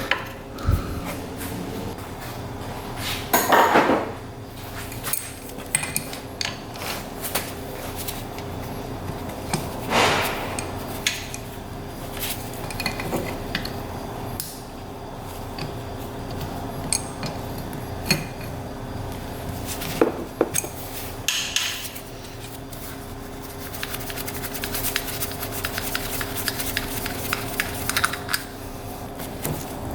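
Hand tools and metal engine parts clinking and clanking in irregular knocks and rattles during teardown of a small engine's top end, over a steady background hum.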